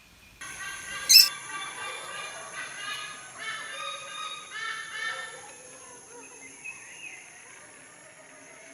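Caged or pet birds calling: a run of repeated short calls for about five seconds, with one loud sharp click about a second in, then quieter.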